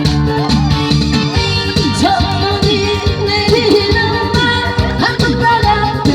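A pumba street singer performing a song live over an amplified backing track, the voice sliding and wavering over steady accompaniment.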